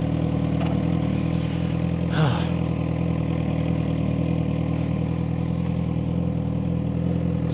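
Suzuki GSX-R600 inline-four idling steadily, warming up after a cold start.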